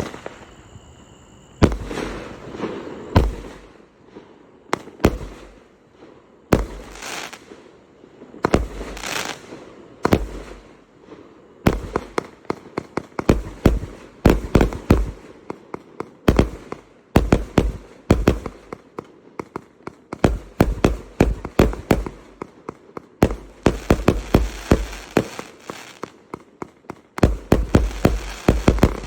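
A 1.2-inch, 25-shot "Bella" firework cake firing: sharp bangs, each followed by a short crackling burst. The shots come one by one with gaps at first, then in quick, dense clusters through the second half.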